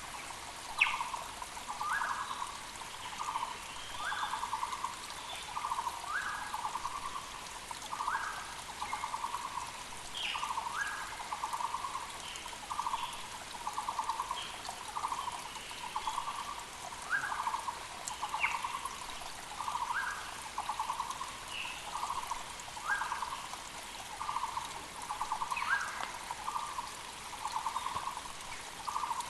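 Muller's barbet (Taiwan barbet) calling over and over, a rapid rattling trill with a short rising note at the start of each phrase, repeated a little more than a second apart. Other birds chirp faintly higher up, a mountain creek flows steadily underneath, and a single sharp click sounds about a second in.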